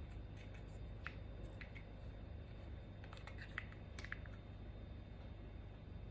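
Faint scattered light clicks and taps from small plastic paint cups being handled, over a low steady hum.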